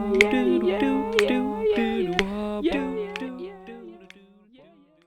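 A cappella outro music made with the mouth: a hummed melody over a held low drone, with sharp clicky mouth percussion. It fades out over the last couple of seconds.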